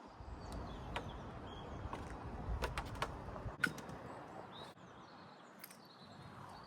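Small birds chirping faintly, with a few sharp clicks and a low rumble of handling or wind.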